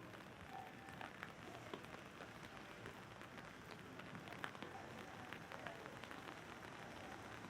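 Faint steady hiss of rain with many individual raindrops ticking sharply on an umbrella overhead.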